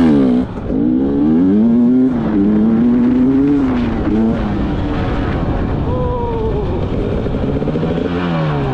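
Enduro motorcycle engine under hard acceleration. It revs up, breaks about half a second in as it shifts up a gear, and climbs again to hold high revs for a couple of seconds. It then eases off and drops, running lower, and falls once more near the end as the bike slows.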